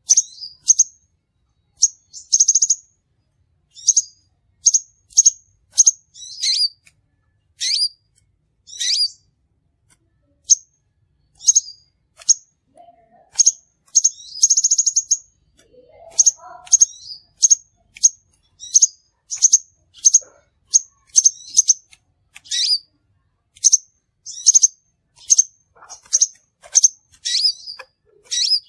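Crimson sunbird (sepah raja) calling: a long run of short, sharp, high-pitched chirps at an uneven pace, broken twice by a brief buzzy trill, as used in a lure recording.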